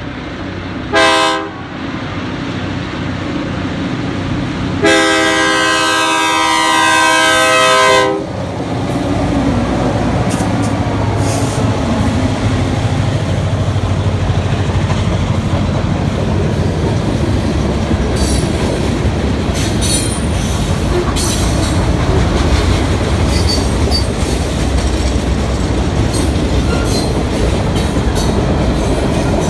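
Freight train led by three EMD GP38-2 diesel locomotives: the lead unit's horn gives a short blast about a second in and a long blast of about three seconds from about five seconds in. Then the diesels' rumble and the clatter of the passing cars carry on loud and steady, with sharp clicks and brief wheel squeals.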